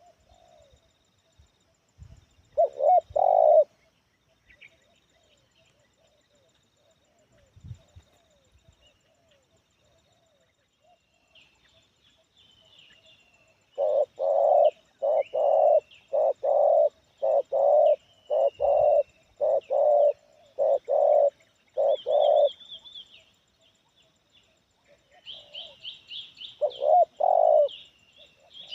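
Spotted dove (tekukur) cooing in a loud, medium-pitched voice: a pair of coos a few seconds in, then a run of about ten evenly spaced coos in the middle, and two more near the end. Small birds chirp higher and fainter in the background, busier near the end.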